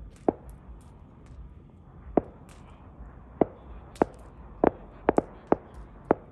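Sharp cracks of wood, about nine at irregular intervals with a couple in quick pairs, from wood being split or burning in a freshly lit campfire.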